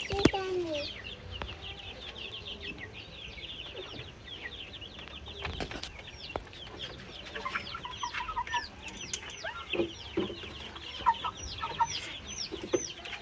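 A crowd of chicks peeping: many short, high, falling cheeps overlapping without pause. There are a couple of sharp knocks, one at the start and one about six seconds in.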